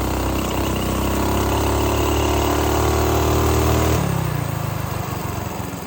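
Minibike's small pull-start engine running steadily under throttle; about four seconds in the revs drop and it falls back to a slower, lighter putter as the throttle is let off and the bike slows.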